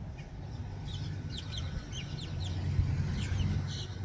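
Birds calling in many short, quick, falling chirps, over a low rumble of wind on the microphone.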